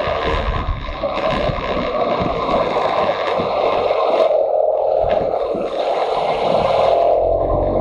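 Motorcycle engine running under way, with wind rushing over the microphone; the wind rumble eases for a couple of seconds in the middle while the engine note carries on.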